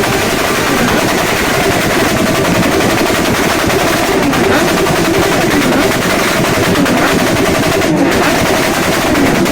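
Loud motorcycle engines running with a rapid staccato of exhaust pulses, their pitch rising and falling as the throttles are blipped.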